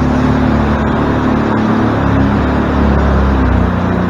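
Boat engine running steadily, its pitch shifting a little midway, over a constant rushing noise.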